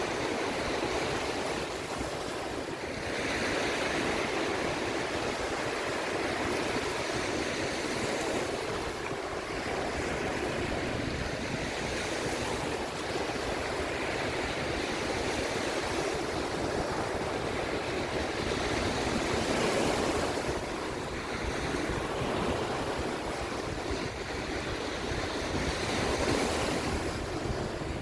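Sea waves washing in and drawing back, the surf swelling and easing every few seconds, with wind in the background.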